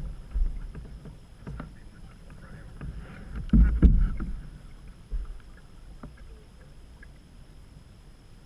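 Canoe being paddled: paddle strokes with irregular knocks, the loudest cluster about three and a half seconds in, then quieter.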